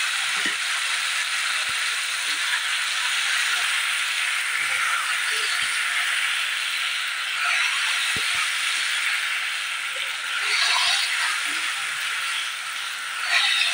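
Diced potato and brinjal sizzling in hot coconut oil in a kadai as they are stirred with a spatula. A steady frying hiss runs throughout, with a few sharp clicks of the spatula against the pan.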